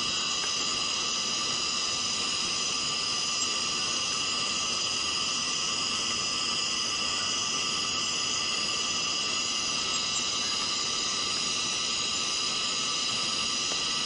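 Chorus of cicadas, a steady high-pitched drone that runs on without a break or change in level.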